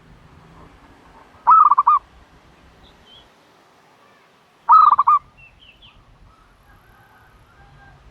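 Dove calling loudly twice, about three seconds apart, each call a quick run of four or five pulsed notes.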